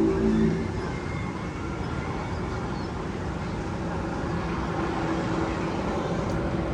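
Steady rumbling noise, after a held low tone stops about half a second in.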